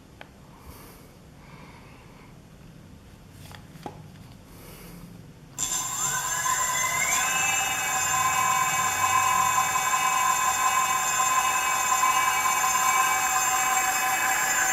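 Brushless gearless hub motor starting under throttle, a few faint clicks before it: its electric whine comes in suddenly about halfway through, rises in pitch for a second or two as the wheel spins up, then holds a steady high whine at speed.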